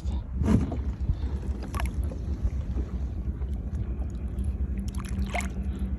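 Wind rumbling on the microphone, with a few faint knocks and clicks from handling on the kayak.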